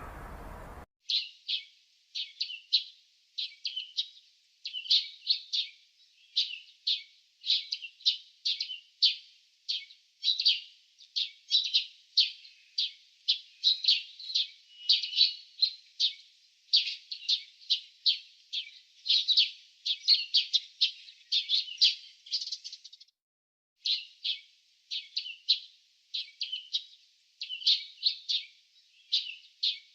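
Small songbird chirping: short, sharp high-pitched chirps in quick clusters, about two or three clusters a second, with a one-second pause near the three-quarter mark. A low hum cuts off just before the chirping begins.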